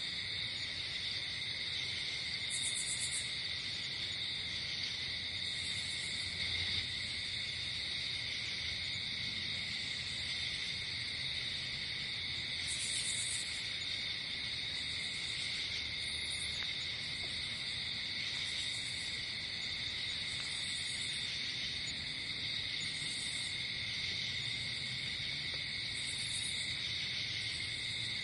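Night chorus of crickets: a steady, high, unbroken trill, with shorter, higher buzzing chirps from other insects repeating every two to three seconds.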